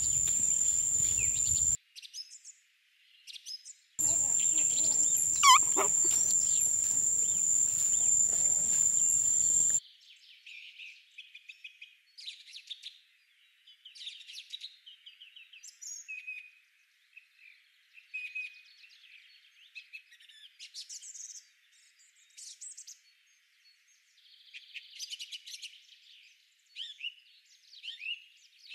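Small birds chirping and trilling in short, scattered calls. For the first ten seconds, with a gap about two seconds in, a louder steady high-pitched whine runs over them.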